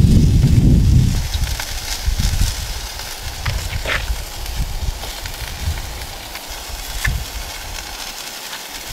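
Venison smash burgers sizzling in avocado oil in a very hot pan on a propane camp stove: a steady frying hiss with a few sharp pops. A low rumble fades out about a second in.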